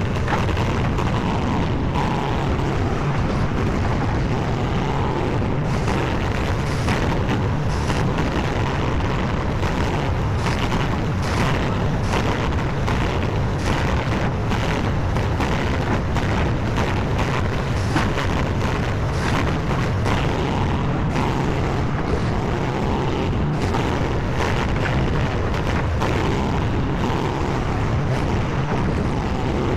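Skid steer engine running steadily, with scattered short knocks and clanks over it.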